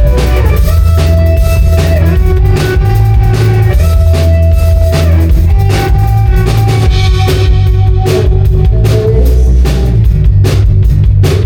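Rock band playing live: drum kit with steady beats and a guitar holding notes over a heavy, loud low end.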